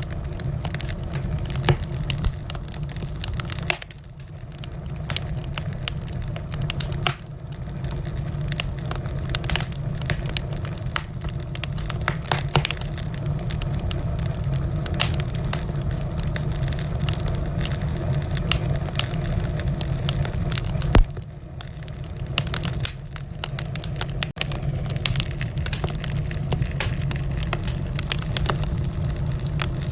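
Wood fire crackling in a fireplace: frequent small pops and snaps over a steady low rumble, with one louder pop about two-thirds of the way through.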